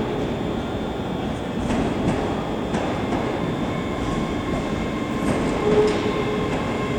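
Scotrail Class 385 electric multiple unit pulling slowly into the platform, its wheels rumbling with occasional clacks over the rail joints. A steady electrical whine comes in around the middle.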